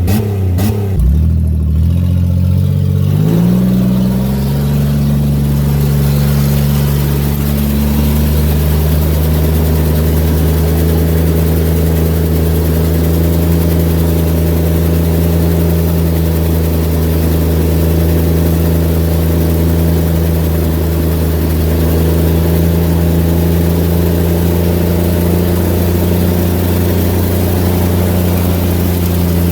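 Buick Century engine revving up over the first few seconds, then held at steady high revs.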